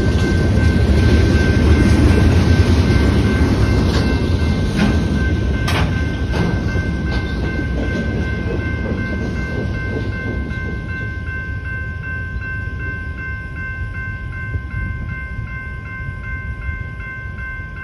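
Freight cars rolling through a grade crossing: a loud rumble of wheels with a few sharp clacks over the rail joints, fading as the last car goes by. The crossing's General Signals type 2 electronic bell rings steadily throughout.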